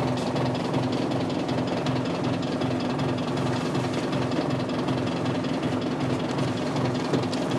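Isuzu 8PE1 V8 diesel engine of an Isuzu Cubic bus idling unevenly, with a rhythmic low throb under a steady hum and no change in revs. The uneven idle is typical of this bus, whose idle is described as very unstable.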